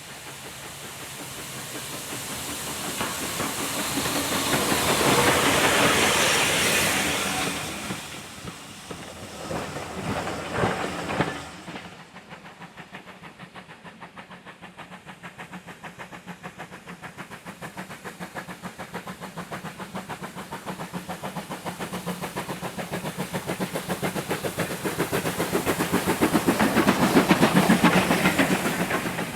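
Steam locomotive working a train. A hissing rush swells and fades in the first few seconds, then rapid, even exhaust beats grow steadily louder toward the end.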